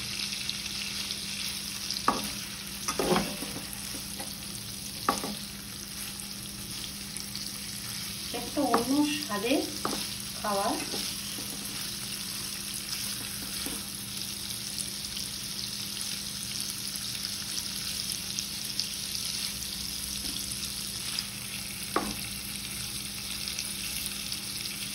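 Paneer pieces frying lightly in oil and butter in a kadai, with a steady sizzle. A few sharp knocks, mostly in the first few seconds and once near the end, come as the pieces are handled and turned in the pan.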